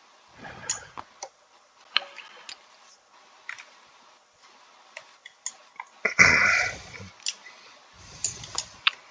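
Scattered light clicks and taps of plastic game pieces being picked up and set down on a board. About six seconds in comes a louder clatter and rustle of handling, followed by another softer rustle near the end.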